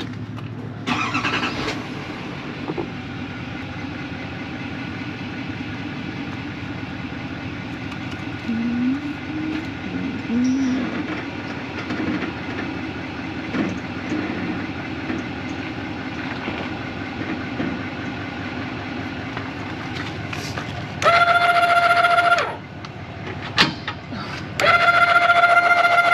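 A vehicle engine running steadily. Near the end a loud, steady pitched tone sounds twice, the second time running on.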